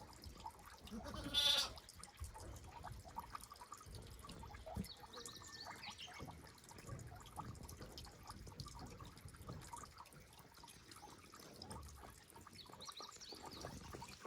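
A goat bleats once, briefly, about a second and a half in, then only faint low background noise.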